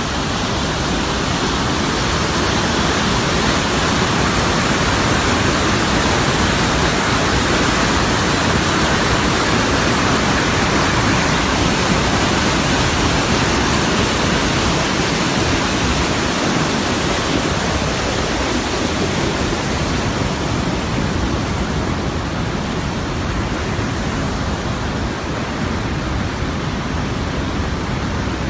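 The Rhine Falls: a large waterfall's loud, steady rush of water, an even noise without pauses.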